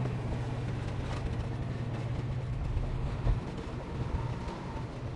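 Heavy construction machinery's diesel engine running steadily under load, with a single thump about three seconds in.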